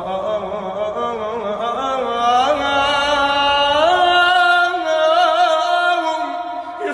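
A sad Iraqi-style song: the singer holds one long, ornamented melismatic note without words, the pitch rising about two seconds in and wavering in turns, then dropping just before the end.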